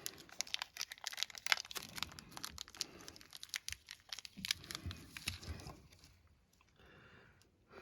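Blue protective plastic film being peeled off an M.2 SSD heatsink cover, crinkling and crackling in quick irregular bursts that stop about six seconds in.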